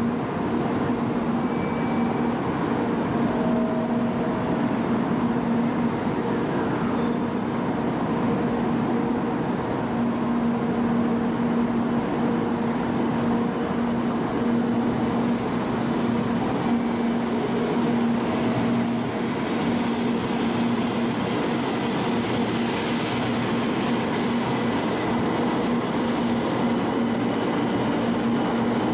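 JR West 700 series Rail Star shinkansen standing at the platform with a steady hum from its running equipment, then starting to pull out of the station in the second half as the higher running sound builds.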